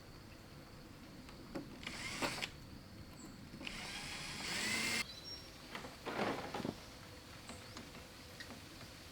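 Handheld electric power tool running in three short bursts, the longest in the middle, its motor whine rising in pitch as it spins up.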